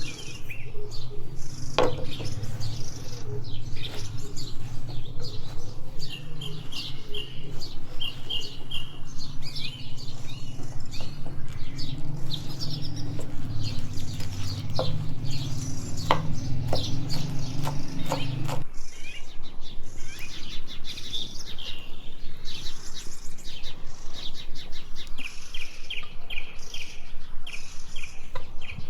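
Birds chirping with many short, quickly repeated calls, over a steady low rumble that stops suddenly about two-thirds of the way through. A few sharp clicks are heard.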